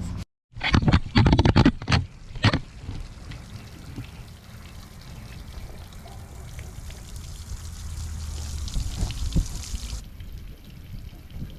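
Water from a garden hose running into flushing muffs clipped on an outboard's lower unit, spraying and trickling steadily. A few loud knocks and clatters come in the first couple of seconds.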